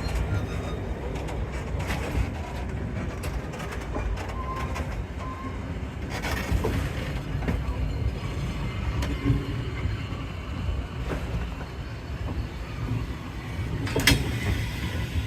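A train running on the track, with a steady low rumble and scattered sharp clicks and knocks; the loudest knock comes near the end.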